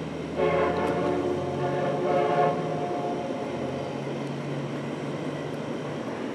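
Passing train's locomotive horn sounding for about two seconds, starting about half a second in, over the steady rumble of the approaching train.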